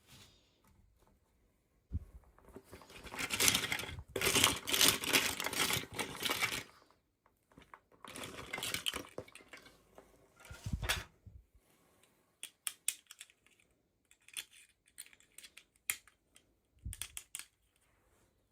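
Packaging handled during a toy unboxing: crackling and crinkling for a few seconds, again after a short pause, then a run of small sharp clicks and taps, with a few soft bumps.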